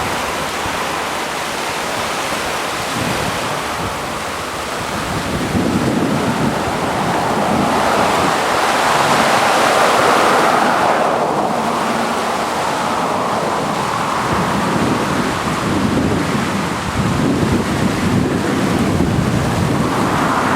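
Rushing water of the flooding Yakima River, a loud steady roar, with wind gusting on the microphone from about five seconds in.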